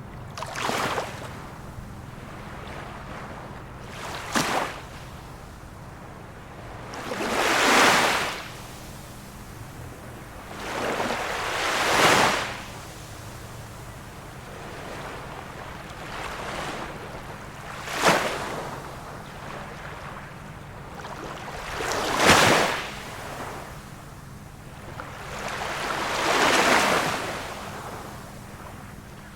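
Small waves of a calm sea breaking and washing on the shore, seven in a row about every three to five seconds. Some are short and sharp, others swell up more slowly. A faint steady low hum runs underneath.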